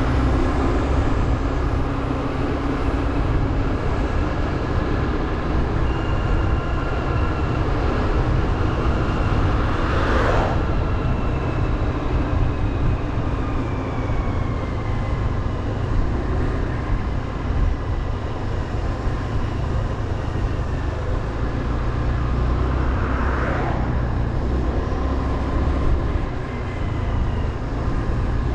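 Motorbike engine running steadily while riding, under heavy wind rumble, with a faint engine note that slowly drops in pitch. Two brief whooshes come about ten seconds in and again near 23 seconds.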